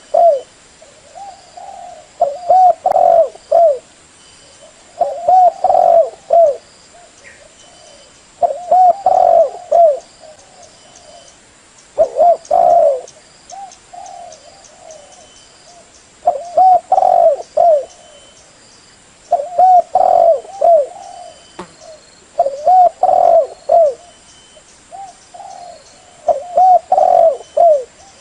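Spotted dove cooing: a short phrase of a few low, rounded coo notes, repeated about every three to four seconds.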